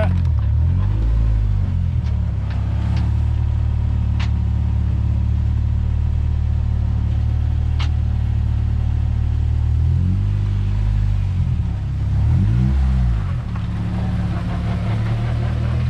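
Honda K24 four-cylinder engine of a Civic EG race car running at low revs as the car is driven slowly. The revs rise and fall near the start and again around ten to thirteen seconds in. There is a whine that the owner takes for the gearbox.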